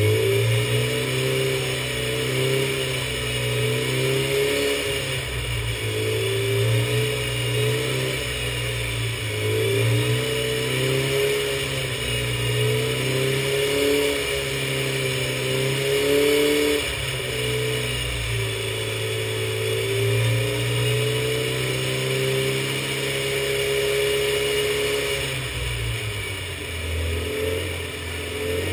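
Classic Mini's engine running on a rolling-road dyno at fairly steady revs that waver a little, dropping back briefly near the end before picking up again. A steady high whine runs over it.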